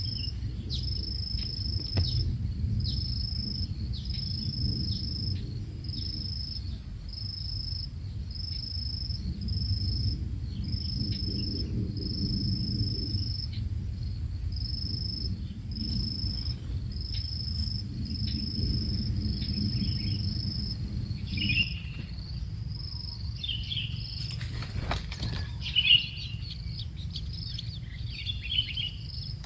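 An insect chirping in a steady, high-pitched rhythm, about one chirp a second, over a constant low rumble. Short bird chirps come in more often in the last third, with a brief knock near the end.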